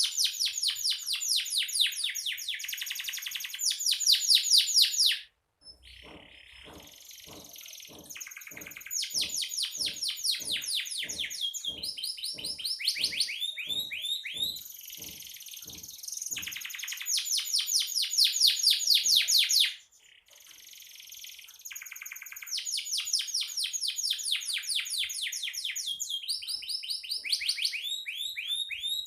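Domestic canary singing long runs of fast rolling trills and repeated chirps, changing pitch and tempo from phrase to phrase. The song breaks off briefly twice, about five seconds in and again about twenty seconds in.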